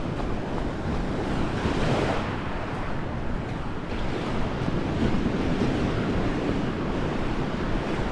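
Sea waves washing onto the beach, swelling twice, with wind buffeting the microphone.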